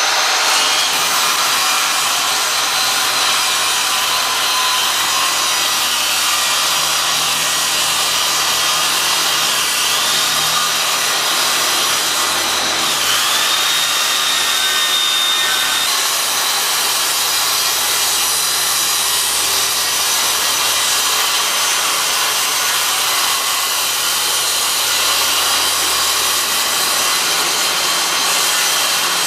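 Power saw cutting through a piece of wood, running continuously with a high whine that dips twice near the middle as the blade bogs down under load.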